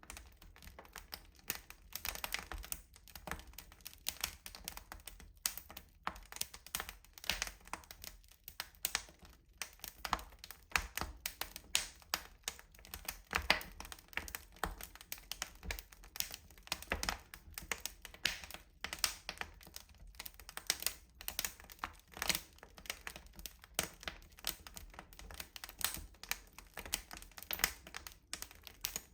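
Wood fire burning in a rustic stove, crackling with many irregular small pops and snaps.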